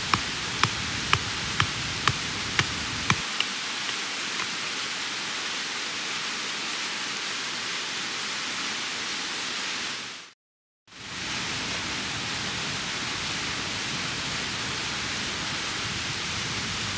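Mountain stream flowing: a steady rush of water. A light ticking beat, about two clicks a second, stops about three seconds in, and the sound drops out for half a second about ten seconds in.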